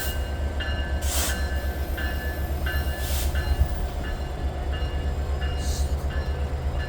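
The CPKC holiday train rolling past with a steady heavy low rumble. A ringing tone repeats about every two-thirds of a second, and there are short hissing bursts about one and three seconds in.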